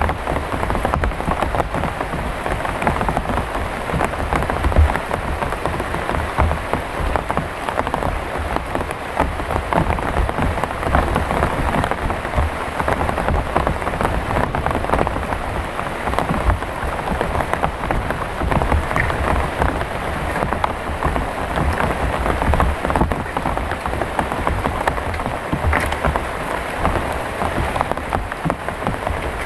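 Heavy rain falling steadily, a dense patter of drops hitting close by.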